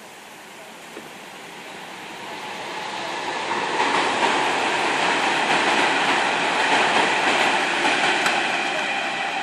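A train passing through on the line, its rumble and wheel noise building over the first few seconds, staying loud for several seconds, then starting to fade near the end.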